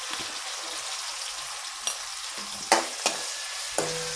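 Onions and tomato sizzling in hot oil in a metal kadai, a steady hiss. A steel ladle clinks and scrapes against the pan several times in the second half as the mixture is stirred.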